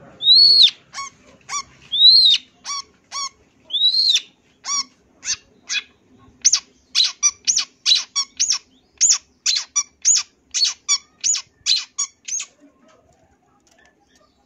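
Long-tailed shrike (cendet) singing: three loud arched whistled notes, then a quick series of short sharp notes at about three a second, which stops shortly before the end.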